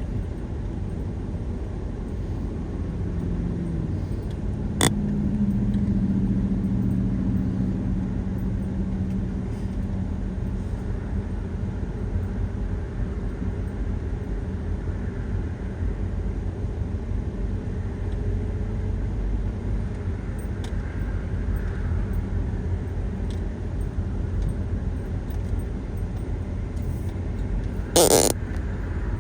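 Steady low rumble of a vehicle running, with a low hum that rises and fades over a few seconds near the start, a sharp click about five seconds in, and a short loud knock near the end.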